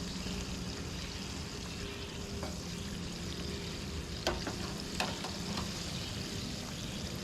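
Flour-coated chicken pieces frying in a pan of hot oil, a steady sizzle. Two sharp clicks or taps come about four and five seconds in.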